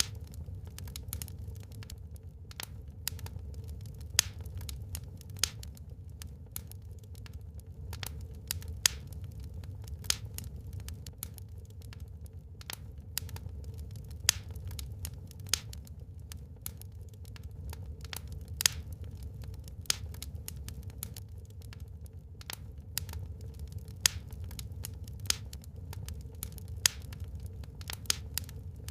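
Wood fire crackling in a fireplace: irregular sharp pops and snaps, several a second, some louder than the rest, over a steady low rumble.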